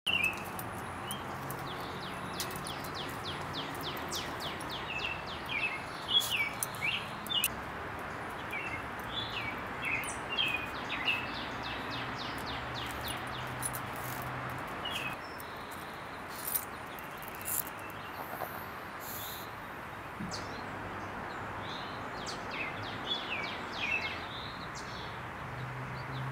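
Small birds chirping in short, scattered calls over a steady background hiss, with a faint low hum through the first half.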